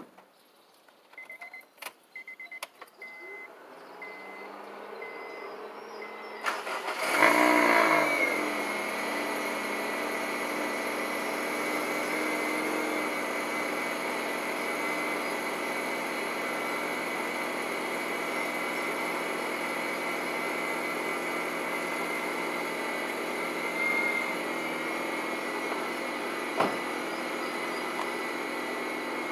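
Cold start of a 2006 Honda Civic's 1.8-litre R18 four-cylinder, exhaust through an aftermarket header/test pipe with no catalytic converter and the stock muffler. After a few clicks, the engine cranks about seven seconds in, catches with a brief flare in revs, then settles into a steady idle.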